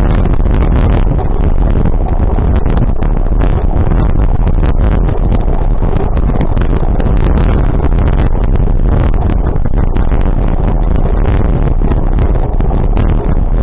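A vehicle on the move, its running sound buried under heavy wind buffeting on the microphone: a loud, steady rumble without break.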